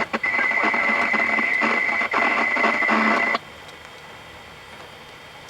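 Radio receiver speaker carrying a noisy, garbled transmission with a steady high tone running through it; the transmission cuts off abruptly about three and a half seconds in, leaving faint hiss.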